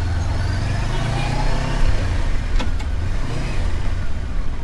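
Motorcycle engine running while being ridden, a steady deep rumble with a short click a little past halfway.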